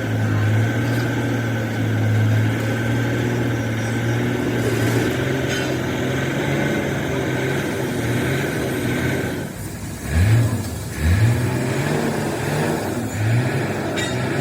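An engine running steadily with a low, even hum, then revved up briefly three times near the end, its pitch rising each time.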